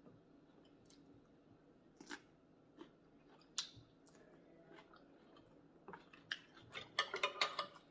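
Chewing and mouth sounds while eating: a few separate wet clicks and smacks, then a quick run of them in the last two seconds.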